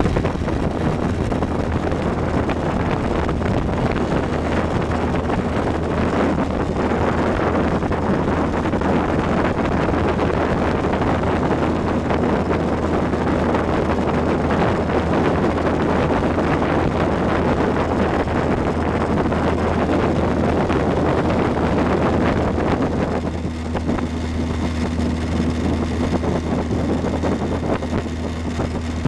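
Motorboat engine running steadily under way, with heavy rushing wind noise over it. About 23 seconds in, the rushing drops and the steady engine note stands out more clearly.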